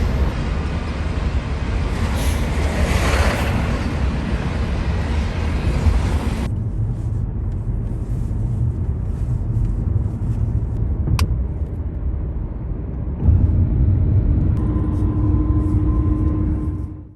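Steady low rumble of a running vehicle, in three edited segments, fading out at the end.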